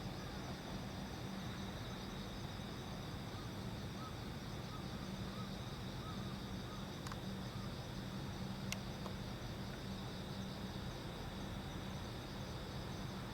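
Crickets and other night insects chirping steadily in high, pulsing trills over a low steady hum, with a few faint sharp clicks.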